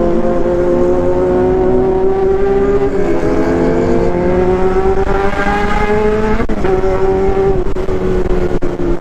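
High-revving motorcycle engine under hard acceleration, its pitch climbing steadily, then a sudden break about six and a half seconds in as it shifts, after which it runs on at a steadier, slightly falling pitch.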